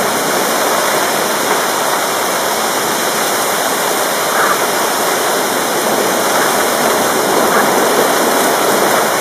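Thunderstorm rain pouring steadily, an even, loud hiss with no thunder.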